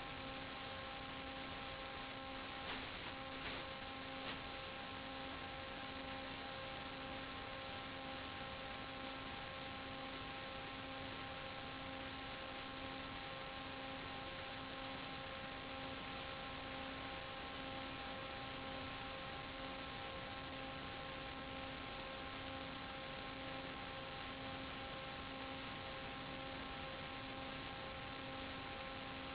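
Steady electrical hum with hiss and several fixed whining tones, the lowest one pulsing evenly, as heard on the audio channel of a 5.8 GHz analogue FPV video link. A few faint clicks come a few seconds in.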